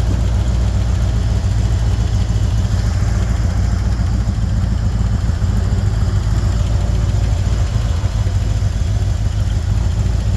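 A 1981 Ford Bronco's V8 engine idling steadily after a cold start in freezing weather, running smoothly on freshly redone intake gaskets.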